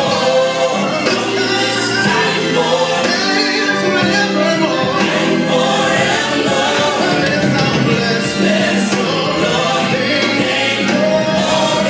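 Gospel choir singing a worship song over sustained instrumental accompaniment, continuous and full.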